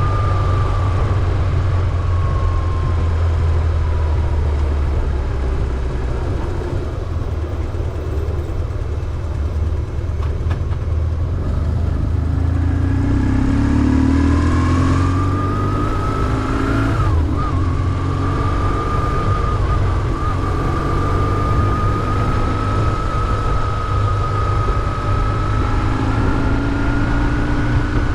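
BMW R1150GS's air-cooled boxer twin engine running as the motorcycle is ridden, with a steady low rumble. Over it, a thin whine drops in pitch over the first few seconds, climbs again from about halfway through, then holds, edging slightly higher near the end.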